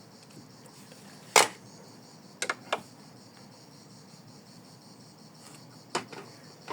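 A few short, sharp clicks over a faint steady hiss: one loud click about a second and a half in, two lighter ones close together at about two and a half seconds, and another near six seconds.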